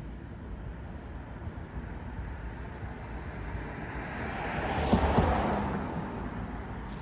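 City street traffic: a vehicle passes, its noise swelling to a peak about five seconds in and then fading, over a steady low rumble of traffic.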